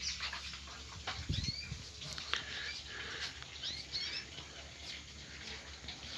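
Small animal calls: short, high, rising chirps, repeated many times at uneven intervals, with a few clicks among them.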